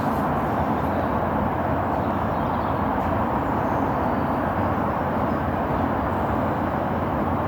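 Steam locomotive at a station giving out a steady, even noise, with no clear chuffing beat.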